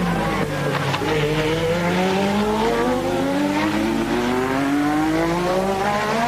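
A 1988-era Formula One car engine accelerating. Its pitch drops briefly about half a second in, as at a gear change, then rises steadily through one long pull.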